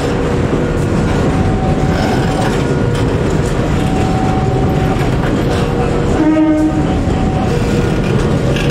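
Container-carrying railway flat wagons rolling past during shunting: a dense, steady rumble and clatter of wheels on the rails, with thin whining tones coming and going. A short horn blast sounds about six seconds in.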